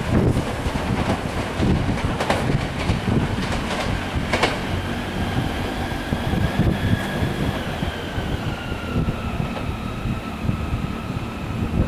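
Electric commuter train running away over short jointed rails: its wheels clack sharply over the rail joints a few times in the first four seconds over a steady rumble. From about halfway in, a thin high whine from the train sounds, slowly falling in pitch.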